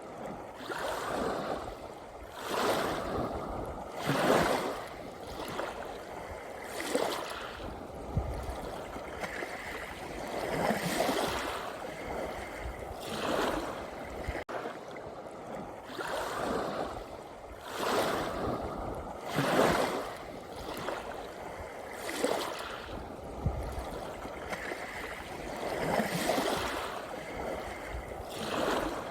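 Sea waves breaking and washing onto the shore, a fresh surge every two to three seconds.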